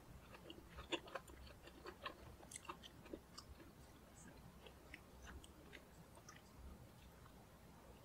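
Quiet close-up chewing of inari sushi topped with cucumber, with many small crunchy, moist clicks, thickest in the first three seconds and thinning out after.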